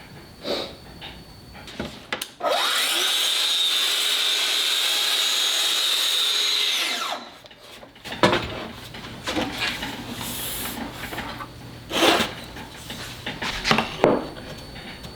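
A power tool motor spins up, runs steadily for about four and a half seconds, then winds down, followed by several knocks and clatters of wood and tools being handled.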